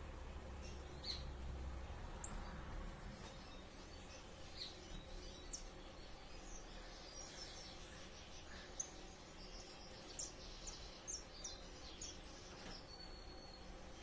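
Faint birds chirping: short, high chirps scattered throughout and busier in the second half, with one brief held whistle near the end, over a low steady hum.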